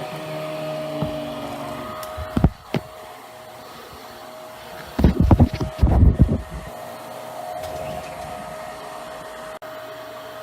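Hoover Power Drive Pet carpet cleaner running with a steady motor whine. Two short knocks come about two and a half seconds in, and a burst of loud knocking and clatter follows about five seconds in.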